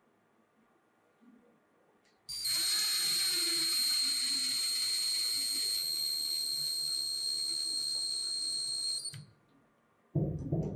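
A small power tool running at a steady high-pitched whine, starting abruptly about two seconds in and stopping sharply about seven seconds later, followed by a single knock near the end.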